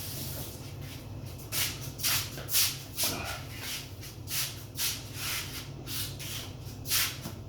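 Thin paper pages of a Bible being leafed through: a series of quick, irregular rustling flips, over a steady low hum.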